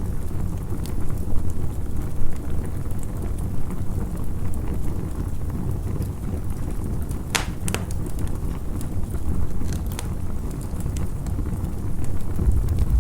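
Campfire crackling, with a few sharp pops over a steady low rumble.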